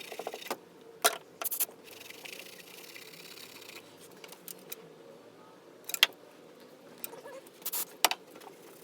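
Hand tools clinking and clicking against metal engine parts: a quick run of small clicks at the start, then a few separate sharp metallic knocks, the loudest about six seconds in and near the end.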